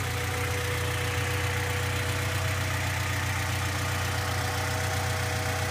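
Car engine idling steadily, fitted with an aftermarket intake manifold, 66 mm throttle body, cold air intake and 4-2-1 headers, heard at the open engine bay near the intake.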